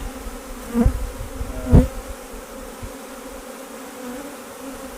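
Honey bees buzzing steadily around an open hive, a continuous hum. Two dull knocks cut through it, about one and two seconds in, the second louder.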